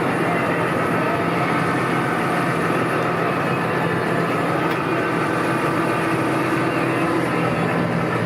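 New Holland T6.180 tractor's six-cylinder diesel engine running at a steady speed.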